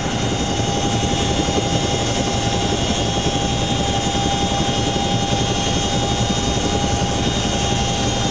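Helicopter running steadily, its rotor making a fast, even pulsing under a constant high whine.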